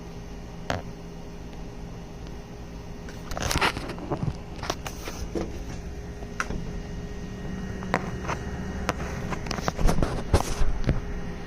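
Scattered knocks, clicks and scrapes of a metal muffler being turned over and handled, with two louder scraping bursts about three and a half seconds in and near the end, over a steady low electrical hum.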